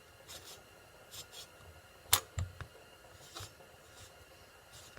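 Soft handling noises and small metal clicks as the preload adjuster nut is spun down the threads of a Showa rear shock body by hand, with one sharp click a little after two seconds in.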